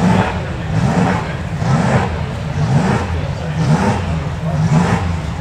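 A car engine revving, its pitch rising and falling again and again over a steady low rumble.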